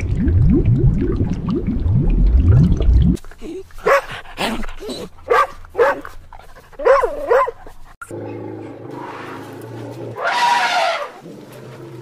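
A dog yelping and whining in a quick series of short, high yips through the middle, after about three seconds of loud low sounds gliding up in pitch. One longer call comes near the end.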